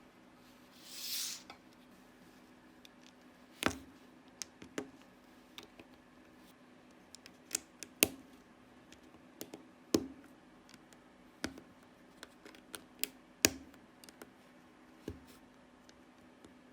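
Small plastic LEGO bricks clicking and snapping together in irregular sharp taps, with a brief rustle about a second in.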